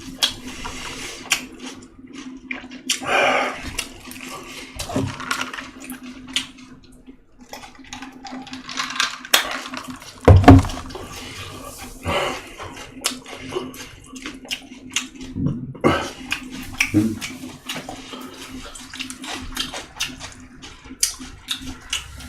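Close-miked wet chewing and mouth sounds of someone eating pork wraps and fermented skate, with many small smacking clicks. A steady low hum runs underneath, and a loud thump comes about ten seconds in.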